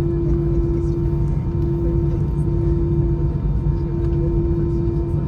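Cabin noise inside an Airbus A319-111 with its CFM56 engines running at steady power: a loud, even rumble with a constant droning tone, unchanging in pitch and level.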